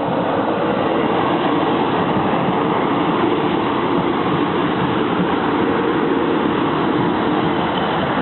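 Train passing close by over a level crossing, a steady loud rumble of wheels on rails that does not let up.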